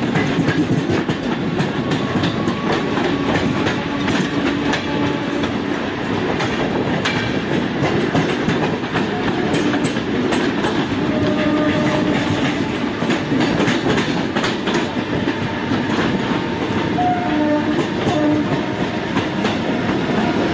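A local train and a Rajdhani Express running side by side on parallel tracks. Steel wheels clatter irregularly over the rail joints under a steady, loud rumble of passing coaches.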